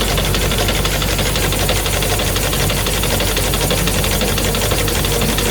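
Automatic pull-out facial tissue folding machine running steadily, a low hum under a fast, continuous mechanical clatter.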